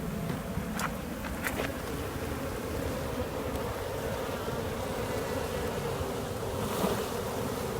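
A large mass of honeybees buzzing steadily in a hive box during a cutout and transfer, with a few faint clicks in the first two seconds.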